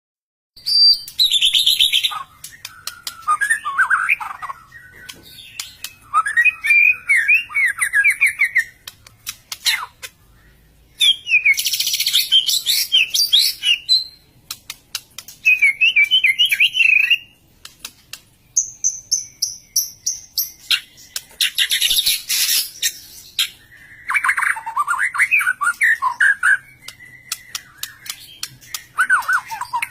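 White-rumped shama (murai batu) singing in full song: loud bursts of rapid, varied whistled and warbled phrases with sharp clicks between them, and one long steady high whistle about two-thirds of the way through.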